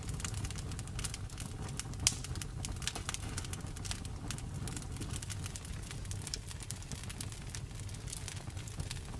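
Wood fire in a fireplace crackling, with sharp snaps and pops at irregular intervals over a low steady rumble of the flames; one snap about two seconds in is louder than the rest.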